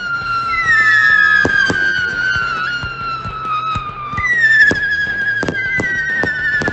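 Jonathan's Fireworks Sky Ambush 73-shot fanned barrage firing whistling shots: long whistles that slowly fall in pitch and overlap, with new whistles starting about half a second, four seconds and six seconds in, over a run of sharp bangs from the shots and bursts.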